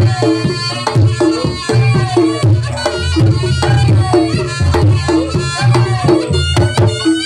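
Reog Ponorogo ensemble music (tabuhan reyog): a wavering reed-shawm (slompret) melody over drum strokes, repeated gong-chime notes and a steady low gong pulse.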